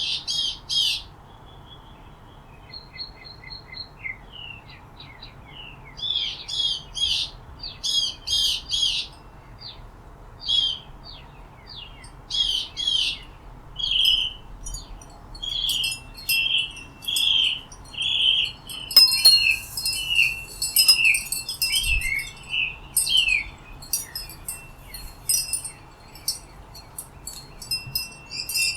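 Small songbirds chirping and calling, with many short repeated chirps and whistled notes that grow busier and overlap in the second half.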